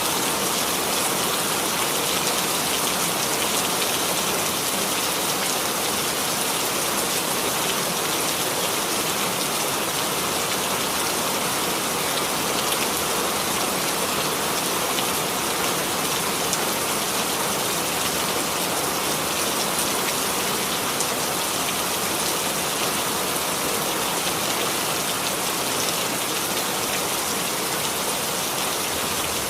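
Steady rainfall, an even hiss of drops falling on a surface, with faint scattered drop ticks and no change in intensity.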